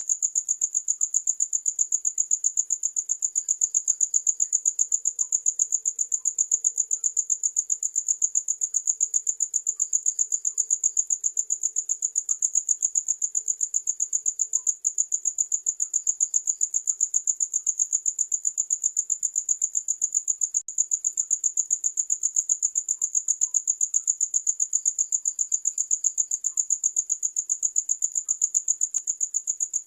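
A cricket chirping in a fast, even, high-pitched trill that goes on without a break.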